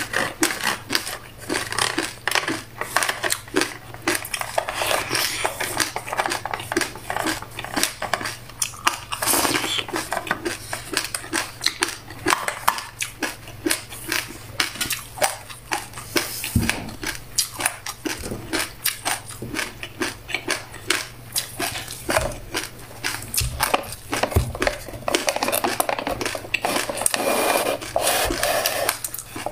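Close-miked crunchy chewing of black sesame seeds and buckwheat with passion fruit: a dense, continuous stream of small crackling crunches.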